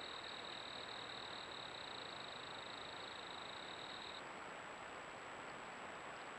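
A high, even trill from a calling animal over a steady hiss; the trill stops about four seconds in.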